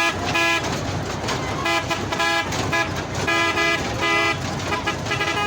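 Mini train's horn sounding a string of short toots, in clusters that come about every second, over the low, steady rumble of its engine.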